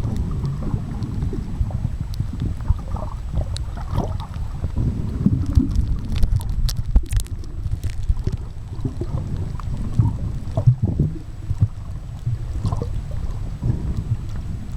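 Steady low rumble of moving water with scattered small clicks and splashes.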